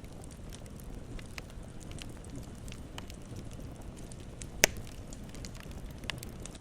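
Campfire burning with a steady low rumble and scattered small crackles, and one sharp, loud pop of burning wood about four and a half seconds in, with a smaller pop near the end.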